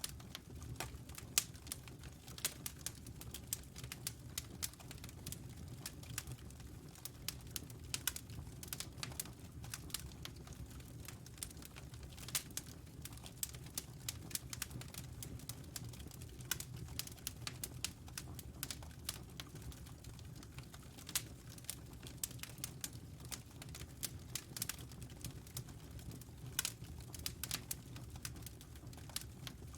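Wood fire burning in a fireplace: dense, irregular crackles and pops over a low steady rumble of the flames.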